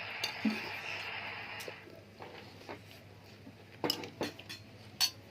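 Eating utensils clinking against a bowl: a series of sharp separate clinks, the loudest about four and five seconds in. A steady hiss runs under the first two seconds and then stops.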